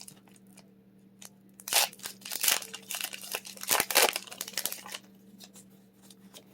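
Foil wrapper of a Pokémon booster pack being torn open: a run of crinkling, ripping rustles from about two to four seconds in, with scattered small crackles before and after.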